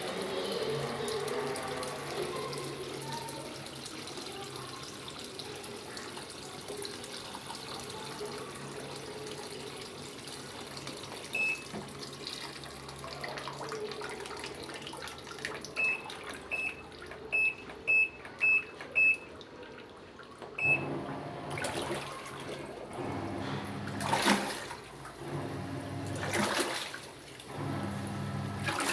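Water running into a Von top-loading washing machine as it fills, a steady rushing hiss over a low hum. About halfway through come a string of short electronic beeps, then louder uneven surges of water in the last several seconds.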